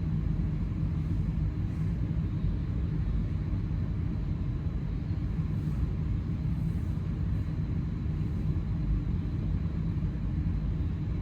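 Alstom NS-16 metro train heard from inside the car while running between stations: a steady low rumble of the running gear and traction.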